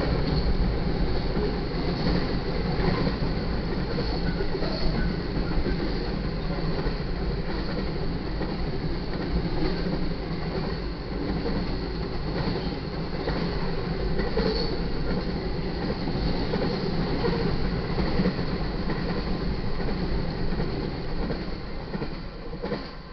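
A double-stack freight train's cars rolling past: a steady rumble of steel wheels on rail with light clicking over the rail joints and a thin, high wheel squeal. It fades in the last second or so.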